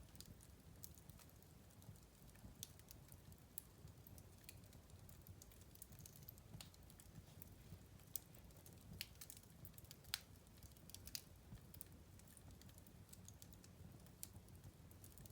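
Wood fire crackling faintly: scattered, irregular sharp pops and snaps, a few louder than the rest, over a low steady rumble.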